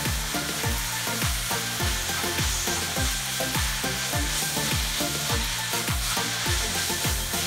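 Sliced bell peppers and onions sizzling in a stainless steel frying pan as a spatula stirs and tosses them. Under the sizzle runs a steady low thumping beat of about two to three thumps a second, like background music.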